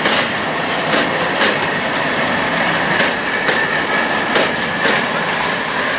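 Railway wagons rolling past, wheels clicking over rail joints in paired beats about half a second apart, with a thin high wheel squeal.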